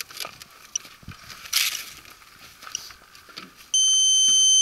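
Light handling clicks and a brief rustle, then near the end a loud, steady electronic beep lasting about a second, starting and stopping abruptly.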